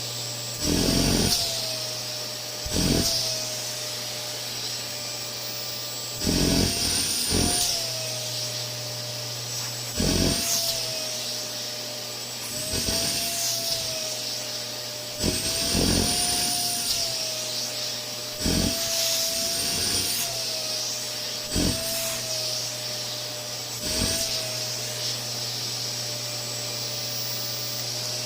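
Canister vacuum cleaner running with a steady motor whine. About every two to three seconds its suction noise surges louder and the whine's pitch rises a little, then settles.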